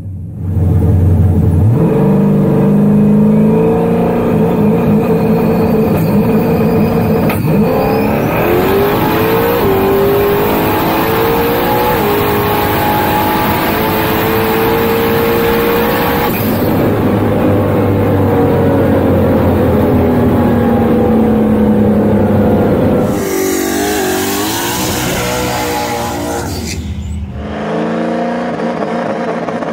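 Chevrolet Camaro F-body drag car's stroker V8 at full throttle, heard from inside the cabin. Its pitch climbs and drops back in steps as it shifts up through the gears. Near the end the driver lifts off and the engine note falls away sharply.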